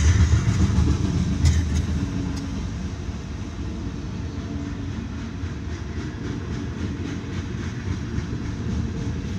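Freight cars of a mixed freight train rolling past, a steady low rumble with a few sharp wheel clacks in the first two seconds, heard from inside a car.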